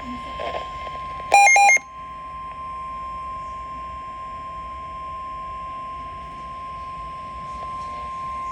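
NOAA Weather Radio warning alarm tone, a steady single pitch near 1 kHz, played through a Midland WR-120 weather radio's speaker to announce a severe thunderstorm warning. About a second and a half in, a short, much louder electronic beep sounds over it.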